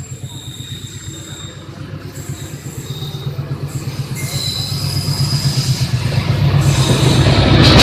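A train approaching on a curved stretch of track, its low rumbling hum growing steadily louder, with thin high-pitched wheel squeal from the curve.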